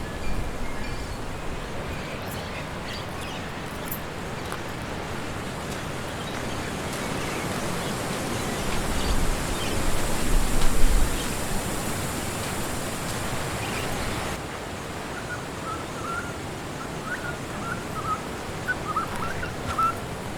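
Wind rushing through woodland trees, a steady rushing that swells into a stronger gust midway. Small birds chirp in short repeated notes near the end.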